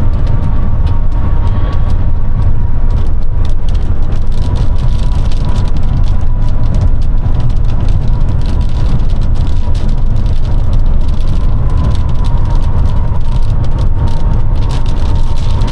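Box truck driving in heavy rain and strong wind, heard from inside the cab: a loud, steady low rumble of road, engine and wind noise, with rain ticking on the windshield and body.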